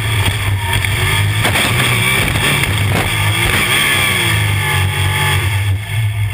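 Several 305 sprint car engines racing past, their pitch rising and falling as the cars go by.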